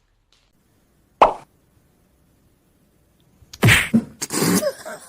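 A single sharp knock just over a second in, then a quick run of loud, noisy thuds and scuffling near the end.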